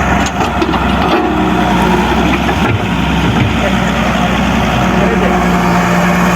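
A steady vehicle engine running at idle, with a continuous low hum and no change in speed.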